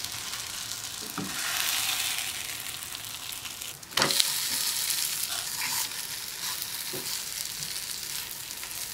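Atta flour rotis sizzling as they fry in oil in a non-stick pan, with a few light knocks as they are turned with a spatula. A sharper knock comes about four seconds in, after which the sizzle is louder.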